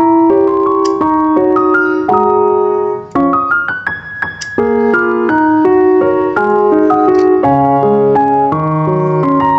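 Piano music playing melodic notes, with a quick rising run of notes near the middle.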